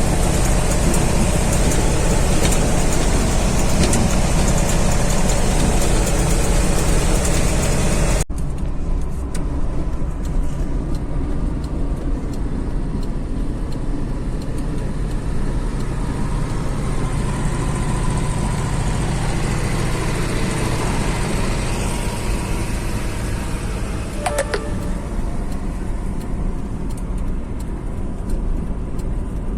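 GAZ-3307 truck engine running steadily as the truck is driven. It is louder and brighter for the first 8 seconds, then switches abruptly to a quieter, duller engine sound whose pitch drifts slowly, with a single click about 24 seconds in.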